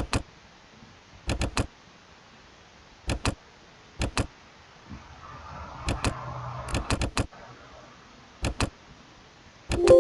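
Computer mouse clicking in short clusters of two or three quick clicks, about every one to two seconds, as software is operated.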